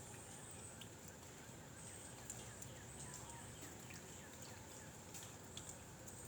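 Faint outdoor ambience: a steady low hiss with a thin high-pitched hum, scattered faint ticks and a few short, faint falling chirps.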